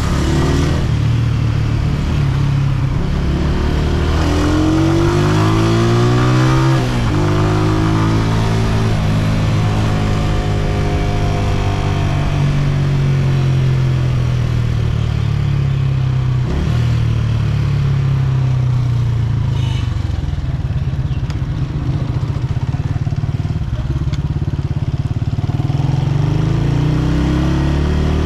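Honda CG125's single-cylinder four-stroke engine running under way, heard from the rider's seat. It revs up in gear a few seconds in, drops sharply at a gear change about seven seconds in, then holds a steady pull with a brief dip a little past halfway, and revs up again near the end.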